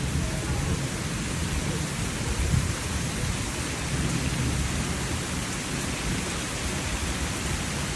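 Steady rain pouring down in a summer thunderstorm, with a low rumble of thunder underneath that swells briefly about two and a half seconds in.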